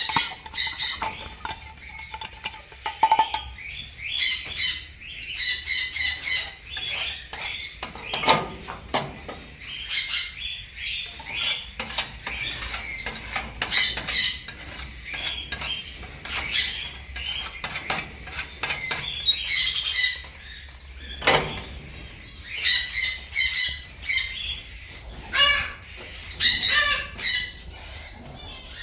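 A flock of small parrots chattering and squawking, with many short calls overlapping. A few sharp knocks or clinks and wing flaps are heard now and then.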